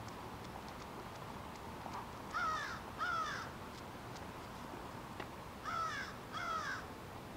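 A bird calling: two pairs of short calls about three seconds apart, each call falling in pitch.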